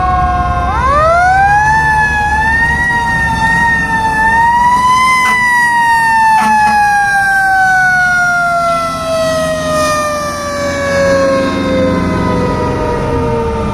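Fire truck mechanical sirens. One is already winding down at the start. A second spins up quickly about a second in, wavers at the top for a few seconds, then winds slowly down in a long falling wail. Truck engines rumble underneath.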